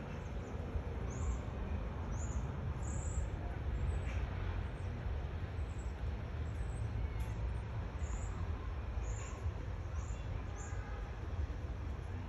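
A bird chirping: short, very high chirps about once a second, over a steady low rumble.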